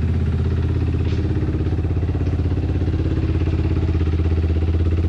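Motorcycle engine running steadily with an even, fast pulse and no revving.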